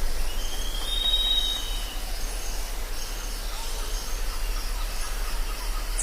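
Jungle ambience: a steady insect chorus with short high chirps repeating throughout, and one long whistled call that rises and then holds for over a second near the start.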